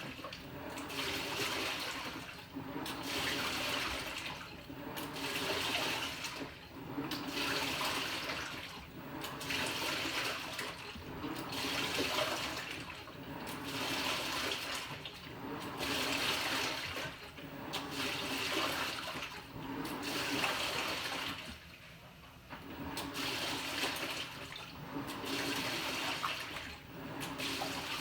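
Panasonic NA-FA100H9 top-loading washing machine in its wash stage: water and laundry sloshing as the pulsator agitates, swelling and easing about every one and a half seconds over a motor hum. There is a brief lull about three quarters of the way through.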